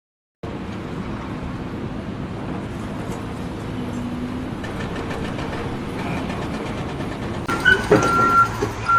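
A large vehicle running steadily. Near the end come a few louder knocks and a short high-pitched tone, twice.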